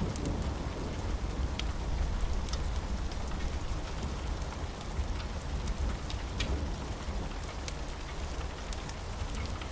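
Steady rain with a low rumble underneath and scattered sharp ticks of drops.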